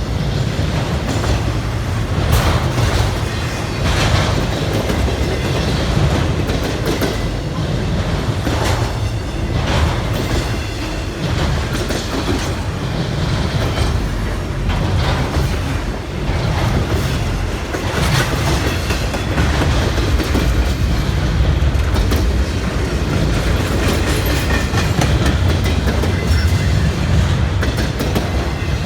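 CSX freight train rolling past, its cars' wheels clacking over the rail joints in a steady run of clicks over the continuous rumble of the train.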